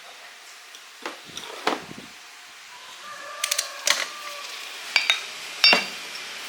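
Metal clinks and knocks: about eight sharp strikes, some ringing briefly, the loudest near the end, as tools and metal parts are handled at a workbench.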